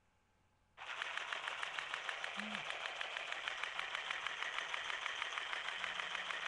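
Easy Stitch handheld pocket sewing machine running and stitching: a rapid, even mechanical clatter that starts abruptly about a second in and keeps a steady fast rhythm. It is stitching properly, without breaking the thread.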